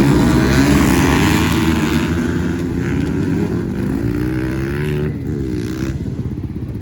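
Dirt bike engines revving hard, their pitch climbing and dropping as the riders work the throttle and shift. The sound is loudest at the start and fades as the bikes pull away.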